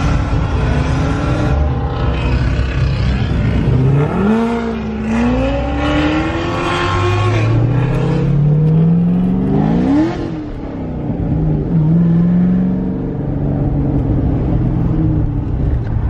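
Car engine heard from inside the cabin, accelerating hard away from a stop. The note climbs, drops at an upshift, climbs again to a second upshift, then settles into steady cruising.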